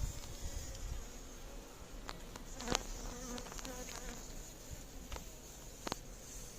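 Honeybees buzzing around an opened hive, with a few sharp clicks or knocks, the loudest about three seconds in.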